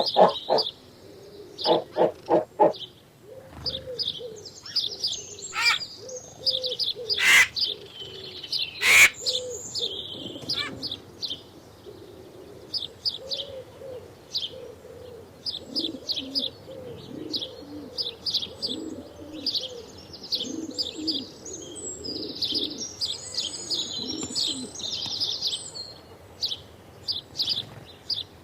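Mixed birdsong: many small birds chirping and twittering throughout, over low repeated calls. Three loud, sharp calls stand out in the first third.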